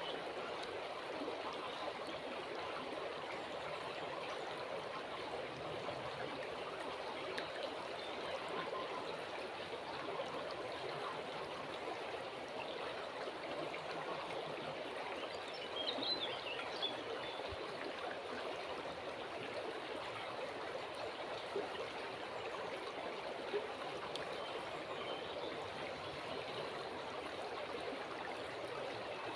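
A calm river flowing with a steady rush of water. A short high chirp, a bird, sounds briefly about halfway through.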